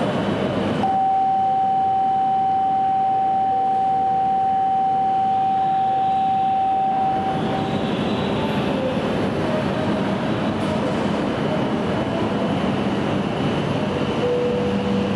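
A steady electronic warning tone sounds for about seven seconds. Then an E5 series Shinkansen train starts to pull out, its running noise building with a faint motor whine.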